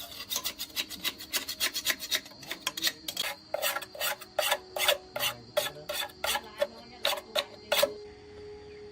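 Repeated rasping strokes of hand filing on a part of an old diesel engine being restored, about three strokes a second, which stop shortly before the end.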